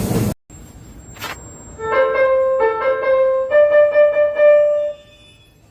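A short electronic melody of about five keyboard-like notes, the last one held for over a second before it fades.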